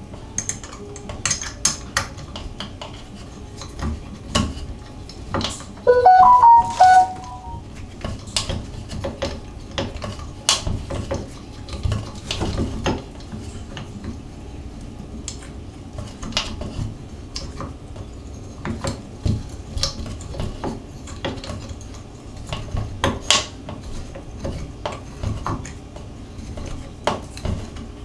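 Small metal valve parts and tools clinking, clicking and knocking irregularly while a Moen shower valve is reassembled by hand. About six seconds in, a brief loud squeak of a few shifting pitched tones.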